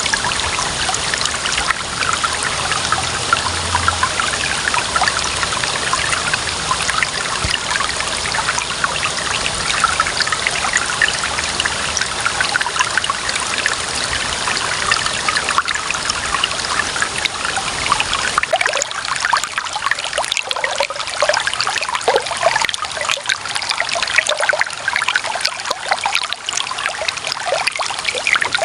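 Clear running water trickling and babbling steadily, full of small splashes; about two-thirds of the way through the deeper rumble drops away, leaving a lighter, brighter trickle.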